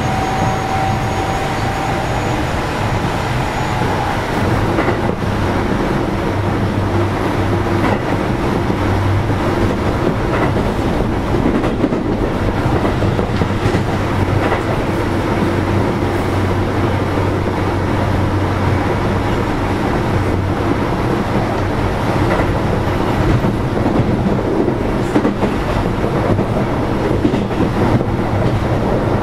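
Inside a Keio 7000 series electric train car running steadily on the line: continuous rumble of the wheels on the rails with a low hum.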